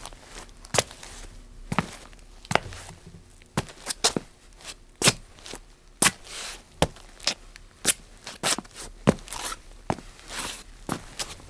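Dancing shoes tapping and scuffing on a tile floor in an irregular dance rhythm: sharp heel and toe clicks, a few a second, with brushing slides between some of them.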